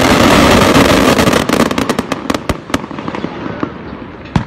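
Daytime fireworks going off: a loud, dense barrage of rapid crackling bangs that thins after about a second and a half into scattered single cracks and fades, with one last sharp bang near the end.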